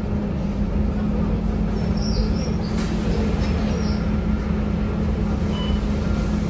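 Scania K230UB single-deck bus's engine running at a steady pitch, a constant low drone heard from inside the bus, with a few faint high squeaks about two seconds in.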